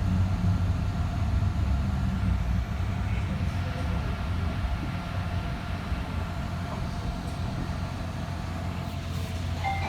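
Alstom Citadis Spirit light-rail car heard from inside the cabin, a steady low rumble that slowly fades as the train slows into a station stop.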